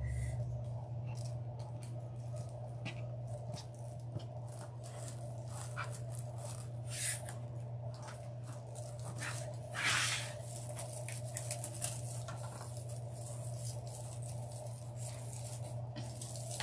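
Deco mesh and grapevine being handled, with scattered short rustles and crinkles, the loudest about seven and ten seconds in, over a steady low hum.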